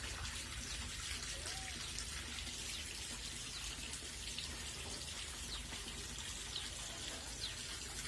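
Steady running or trickling water.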